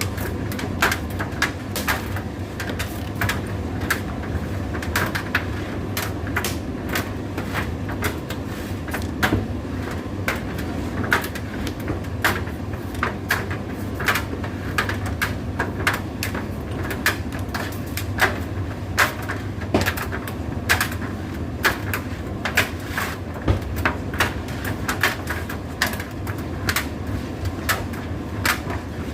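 Indesit IDC8T3 condenser tumble dryer running: a steady low motor and fan hum with irregular sharp clicks and knocks throughout, as the turning drum tumbles its load.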